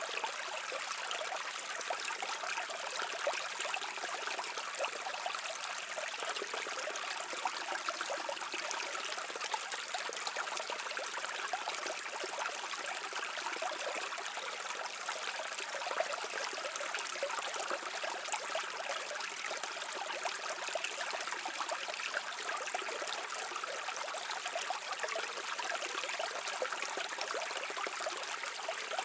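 A brook babbling and trickling steadily, a continuous even rush of water with many small splashes and no pauses.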